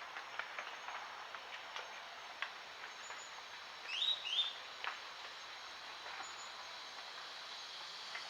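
Tropical forest ambience: a bird gives one call of two quick rising chirps about halfway through, over a steady high-pitched hum, with scattered faint ticks.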